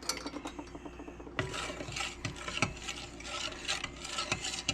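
A utensil stirring a liquid dough mixture in a mixing bowl, with quick irregular scrapes and clicks against the bowl that start in earnest about a second and a half in.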